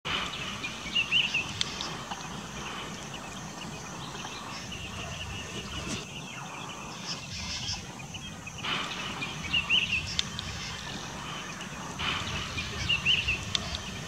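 A few short bursts of bird chirping, about a second in, near ten seconds and again near the end, over a steady outdoor background hiss.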